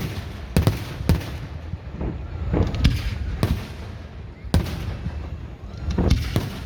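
Aerial fireworks bursting overhead: a string of sharp bangs at irregular intervals, each with a short echo, over a low steady rumble.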